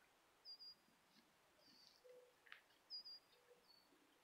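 A bird chirping faintly: about five short high notes, each with a quick downward tail, roughly a second apart.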